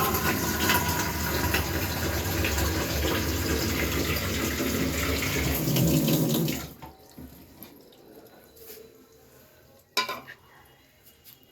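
Water running steadily, which cuts off abruptly about seven seconds in. A single sharp knock follows about three seconds later.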